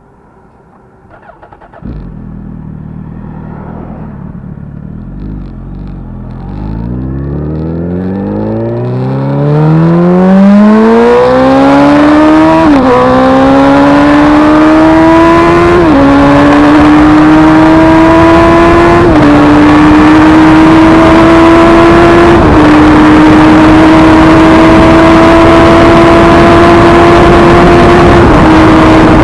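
A high-performance vehicle engine starts up about two seconds in, then accelerates hard: its pitch rises steadily and drops back at five upshifts, each gear lasting longer than the one before, as in a flat-out top-speed run. Rushing wind noise builds as the speed climbs.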